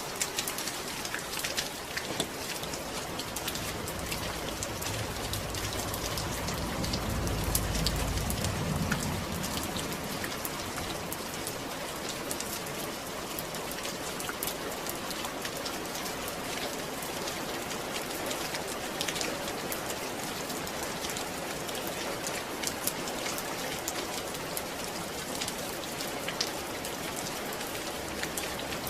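Steady rain falling on a surface, with a dense patter of individual drops. A low rumble swells and fades about a quarter of the way through.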